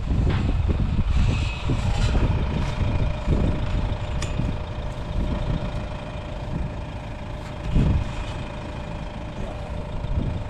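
A vehicle's engine running steadily, with a low rumble and a steady whine, and a single sharp click about four seconds in.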